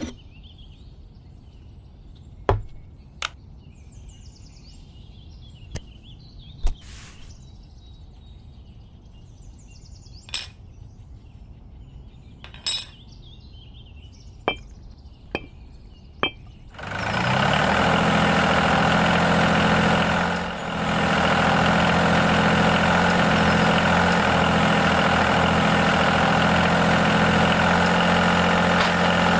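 Scattered light knocks and clinks of parts being handled, with birds chirping. About seventeen seconds in, a small electric motor starts suddenly and runs steadily with a buzzing hum, dipping briefly a few seconds later.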